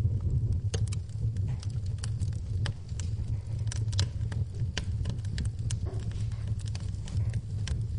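Wood fire burning in a fireplace, crackling and popping: irregular sharp cracks several times a second over a steady low rumble.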